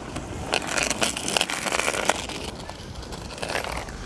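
Cruiser skateboard wheels rolling over pavement: a continuous rough rumble of the wheels, broken by many small crackling clicks from grit and cracks under them.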